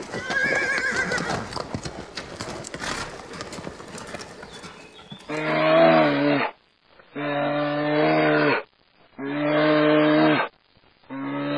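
A horse's short wavering whinny at the start, then four long, low, steady animal calls, each about a second long with short gaps between them.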